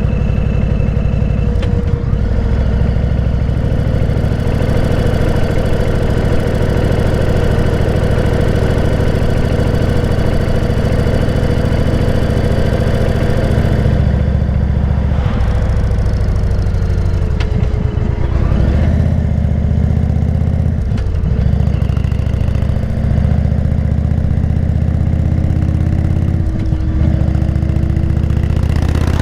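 Motorcycle engine running steadily while riding, its pitch dropping and picking up again a few times around the middle and near the end.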